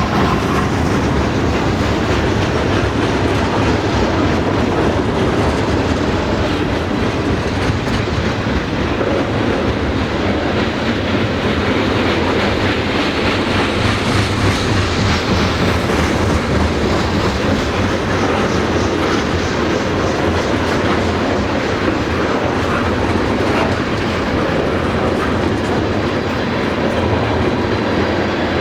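Loud, steady sound of a train's cars rolling past, steel wheels clacking over the rail joints.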